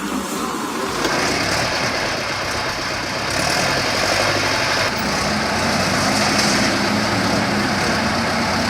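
Diesel engine of an overloaded Tata 1212 TC 4x4 logging truck running steadily under load as it struggles in mud on a slope. A higher hiss joins about three seconds in.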